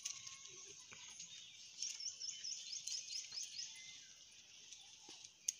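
Birds chirping outdoors over a steady high hiss, with a quick run of about eight rising chirps about two seconds in. A single sharp click comes near the end.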